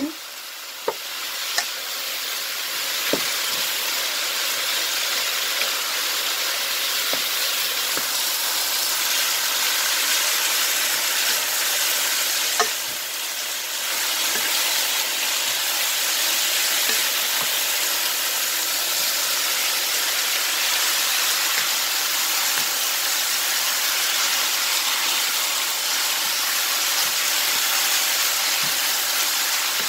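Bean sprouts and pork sizzling in a hot pan as they are stirred with a wooden spatula: a steady frying hiss, with a few light knocks of the spatula against the pan.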